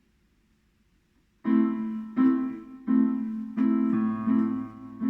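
Keyboard playing a song intro in a piano voice, starting about a second and a half in: chords struck roughly every 0.7 s, with a low bass note added near the end.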